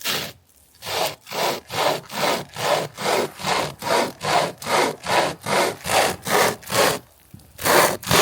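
Hand saw cutting through the trunk of a small dead, dry pine in quick, even back-and-forth strokes, a little over two a second. There is a brief pause about seven seconds in, then the strokes resume.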